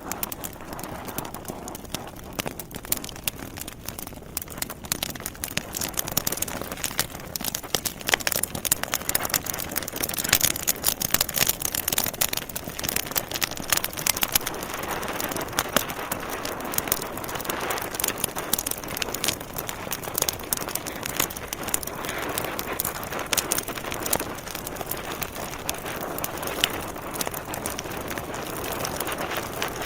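Wood logs burning in a fireplace, crackling and popping: many sharp snaps over a steady hiss of flame. The snaps come thickest about a third of the way in.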